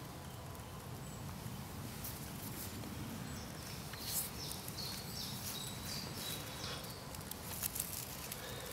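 Quiet outdoor ambience: a low, steady background noise with a bird chirping several short, falling notes about four to five seconds in. A few faint clicks come near the end.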